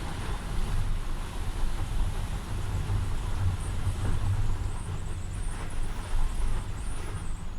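Typhoon wind gusting against the house: a deep, fluctuating rumble with a rushing hiss over it, swelling and easing with the gusts.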